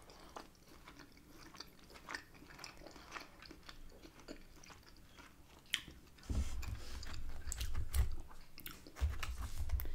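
A person chewing food close to the microphone, with soft wet mouth clicks. Faint at first, louder and fuller from about six seconds in.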